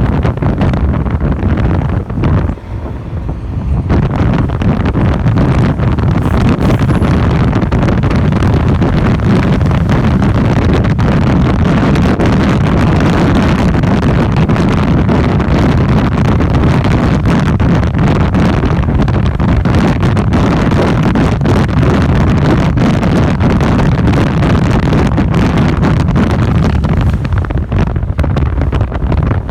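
Wind rushing over the microphone of a moving motorcycle, mixed with engine and road noise. It is steady apart from a brief drop in loudness about two and a half seconds in.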